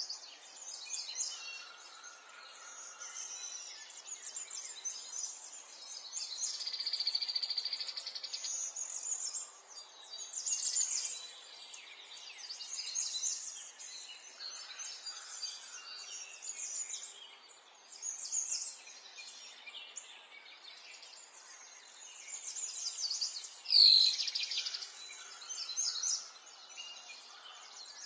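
Many birds singing and chirping, with short repeated high-pitched calls and trills over a faint steady background hiss. Near the end a single loud, sudden sound sweeps down sharply in pitch.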